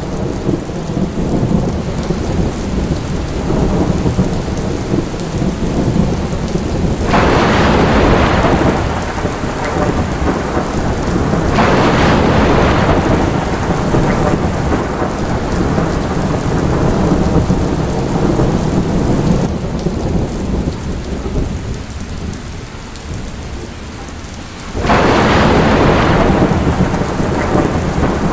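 Steady rain under a continuous low rumble of thunder, with three louder peals that break in suddenly and fade: about seven seconds in, about twelve seconds in, and near the end.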